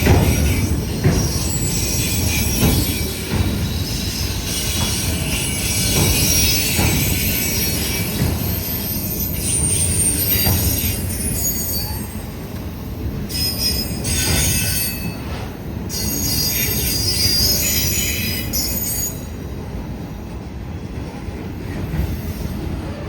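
Freight train rolling past with its wheel flanges squealing on the rails: high-pitched squeals come and go over a steady low rumble and scattered wheel clicks. The squealing dies away a few seconds before the end.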